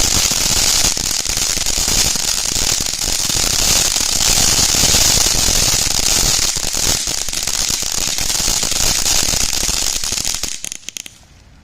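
A TNT Wizard Alley ground fountain firework burning: a loud steady hiss of spraying sparks with dense crackling throughout. About ten and a half seconds in it sputters out with a few last pops and stops.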